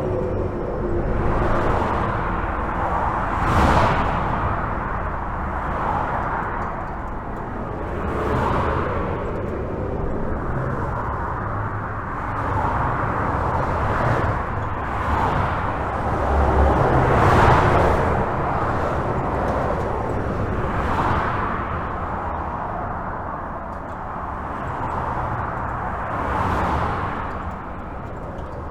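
Continuous highway traffic: cars and trucks passing at speed, heard from under a bridge, their tyre noise swelling and fading as each vehicle goes by every few seconds, over a steady low rumble.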